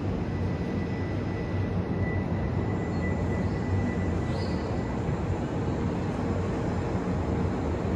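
Steady hum and rumble of a Kintetsu Minami-Osaka Line train at a station platform, with a thin whine that comes in about a second in and fades out around four seconds.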